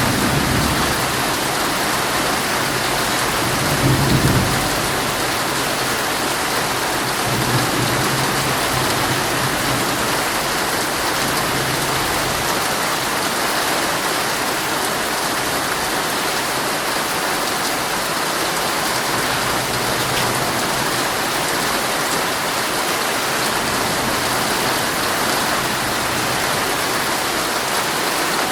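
Heavy rain pouring steadily on a tent, heard from inside. Thunder rumbles low several times in the first half, loudest about four seconds in, then fades into a longer, weaker roll.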